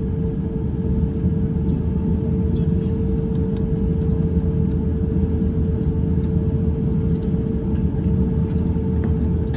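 Steady low rumble inside the cabin of an Airbus A350-900 on the ground before takeoff, with a steady mid-pitched hum over it.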